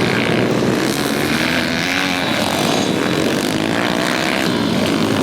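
Several pit bike engines racing together, their revs rising and falling as they overlap.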